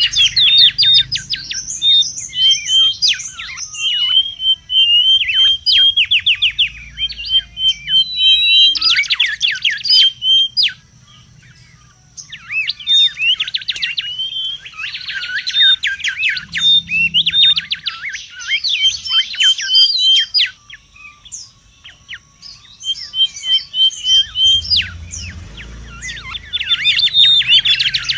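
Mangrove whistler calling noisily: dense runs of rapid chirps and sweeping notes mixed with repeated short whistled notes, coming in bursts with a brief lull about eleven seconds in.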